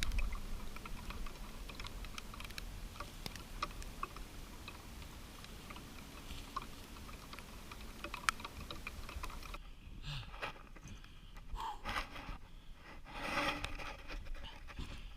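Footsteps trudging through knee-deep snow, crunching and crackling with many small clicks, with heavier uneven crunches in the last few seconds.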